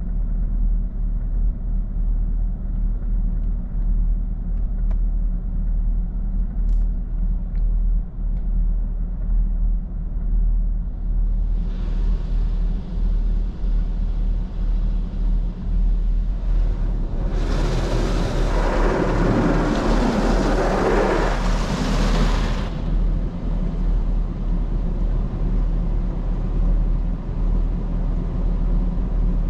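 A 2021 Camaro 2SS's 6.2-litre V8 idles with a steady low rumble inside the cabin while automatic car wash machinery works over the car. A rushing hiss builds about twelve seconds in and turns into a loud rush for about five seconds before easing off.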